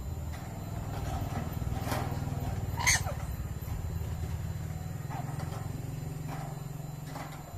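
Pet lory giving one short, loud squawk about three seconds in, with a few faint chirps around it, over a steady low hum.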